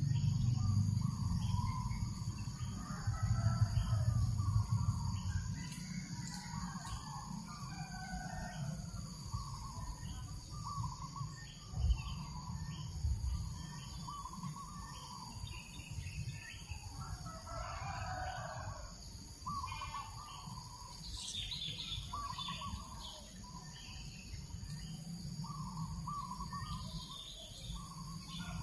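Several birds chirping and calling in short phrases over a low rumble of breeze on the microphone, stronger in the first few seconds. A single low thump comes about twelve seconds in.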